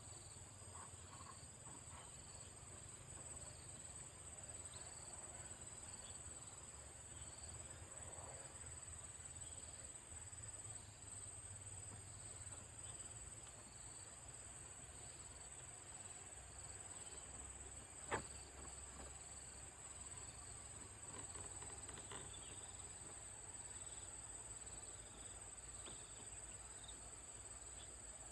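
Steady, high-pitched, faint chorus of insects, most likely crickets, with one sharp click about 18 seconds in.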